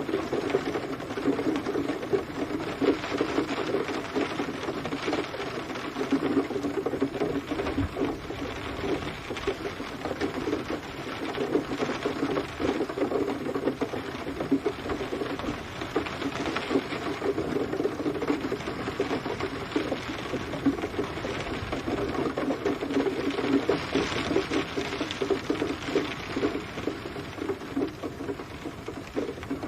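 Steady rain pattering densely, countless drops ticking on a hard surface with no break and no thunder.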